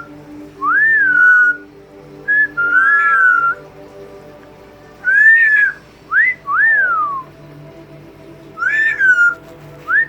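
Double yellow-headed amazon parrot whistling a run of clear, arching up-and-down notes, about seven of them in short groups with pauses of a second or two between.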